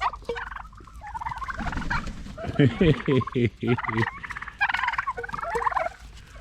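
Domestic turkeys gobbling and calling, with a loud rapid rattling gobble about two and a half seconds in.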